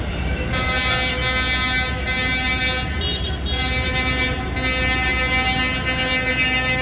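A vehicle horn sounding in long held blasts, starting about half a second in and briefly broken twice, over a steady engine rumble.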